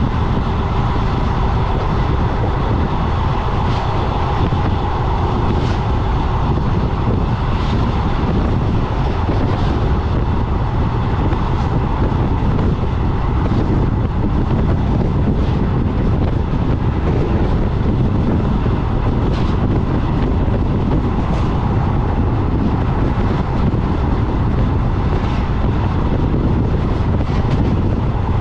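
Moving Indian Railways passenger express train, heard as a steady rumble of wheels on rails. Faint sharp clicks come about every two seconds.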